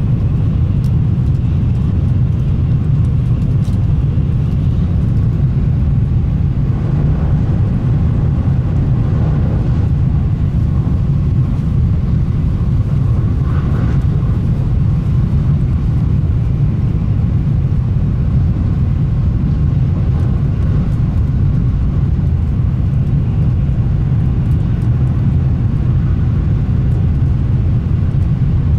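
Shinkansen train running steadily, heard from inside the passenger cabin: an even low rumble from the wheels and track.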